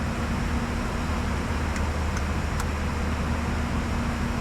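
Steady cockpit noise of a Bombardier Challenger 605 in flight: a constant rush of airflow with a low, even hum underneath.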